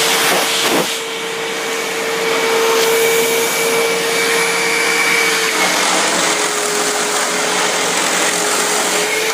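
Hoover WindTunnel self-propelled bagless upright vacuum cleaner running steadily, its motor whine sitting over a loud rush of air. The whine drops slightly in pitch a little past halfway.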